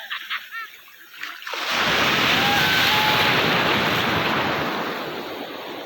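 Ocean wave breaking and washing in: a rush of surf that swells about a second and a half in, holds, then slowly fades.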